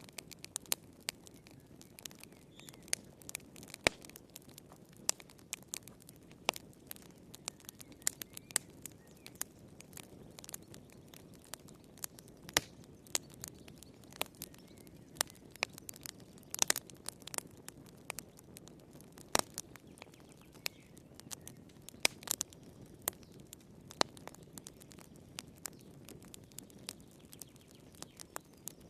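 Wood fire crackling in a fireplace: irregular sharp pops and snaps, several a second, over a soft low rumble of the flames, with a few louder pops around the middle.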